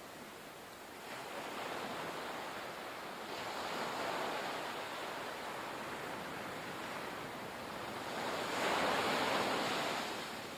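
Ocean surf: an even wash of breaking waves that swells and ebbs, with the loudest wave breaking near the end.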